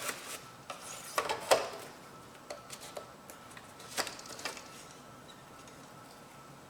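A few light clicks and taps from hands handling small parts, loudest about a second in and again about four seconds in, with quiet between them.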